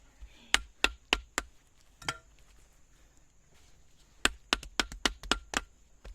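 Sharp chopping strikes: a quick group of four, a single blow, then a faster run of about eight.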